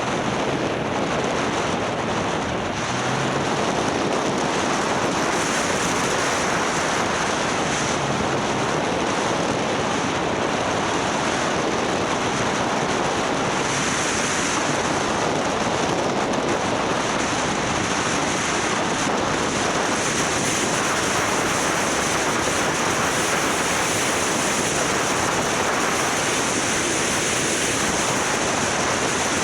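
Steady rush of wind over the microphone of a camera riding on a moving motorbike, with no distinct engine note standing out.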